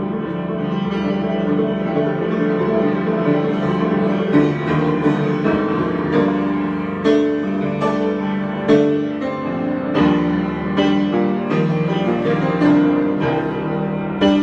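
Solo piano improvisation: sustained chords ringing under single struck notes, with the notes coming more often from about four seconds in.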